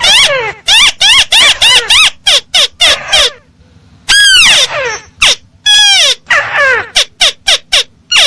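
Crake (burung tikusan) calls played as a bird lure: loud, harsh, pitched notes repeated rapidly, several a second. There is a short pause a little over three seconds in, then a few longer calls that fall in pitch before the quick series resumes.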